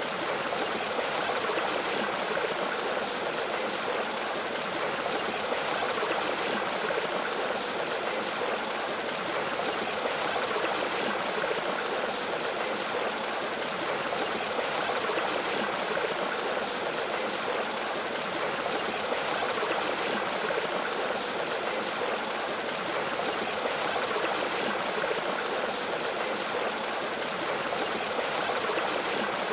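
Mountain stream flowing over rocks with a small waterfall: a steady, even rush of running water.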